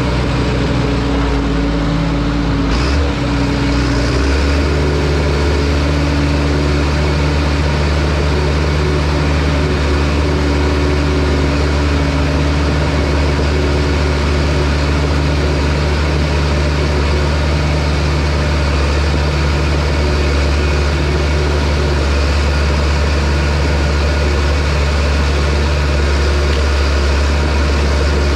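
Heavy equipment diesel engine running steadily. Its note changes about three to four seconds in, then holds steady.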